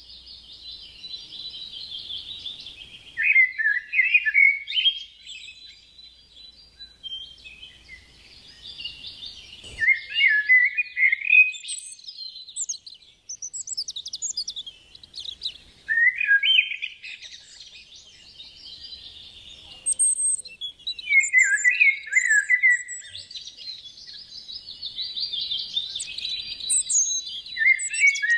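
Songbirds singing: fast, busy chirping and trilling phrases that recur every several seconds, each swelling into louder, lower notes.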